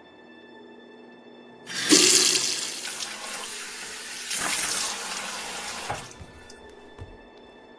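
Water running from a tap into a bathroom sink while someone washes their face. It is turned on sharply about two seconds in, swells again partway through, and is shut off about six seconds in.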